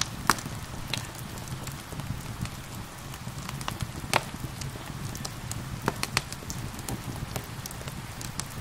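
Steady rain with a crackling fire, its sharp pops scattered irregularly over the rain's hiss and low rumble. The loudest pops come a fraction of a second in and about four seconds in.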